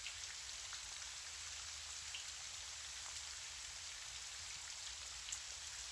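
Steady rain falling, an even patter with faint scattered drop ticks.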